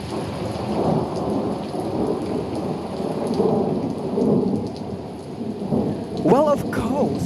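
Heavy rain pouring, with a low rolling rumble of thunder that swells and fades.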